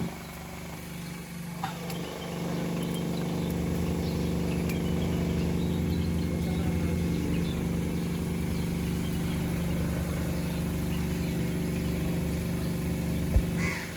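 Toyota Corolla GLI engine idling steadily, quieter for the first two seconds and then louder. A sharp knock sounds near the end.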